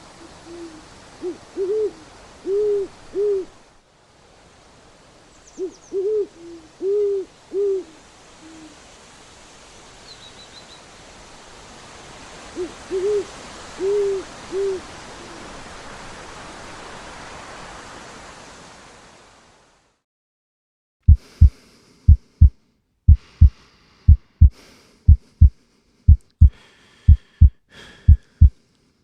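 Owl hooting in three runs of several hoots over a steady hiss. After a short silence, about two-thirds of the way through, a heartbeat starts: paired low thumps, about one pair a second.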